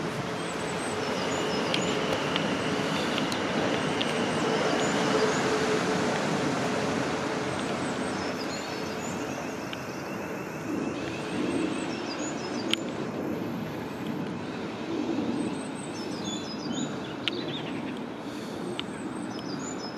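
Class 450 Desiro electric multiple unit train running on the line, a steady rumble of wheels and motors with a steady hum in the first few seconds. Birds chirp now and then.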